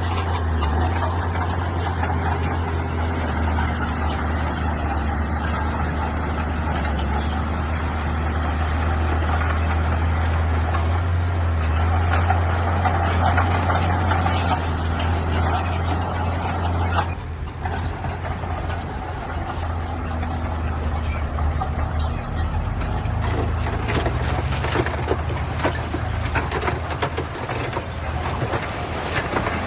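Bulldozer's diesel engine running steadily under load. A little past halfway the engine note drops and changes, and more clanking and rattling comes through.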